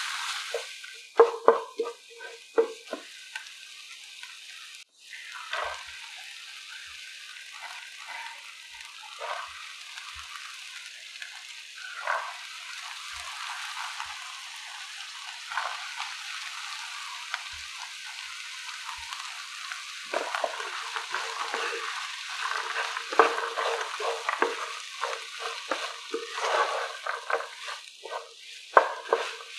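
Onion, tomato and mixed vegetables sizzling in oil in a nonstick pan while a wooden spatula stirs and scrapes them. The stirring strokes are busiest in the first few seconds and again over the last ten.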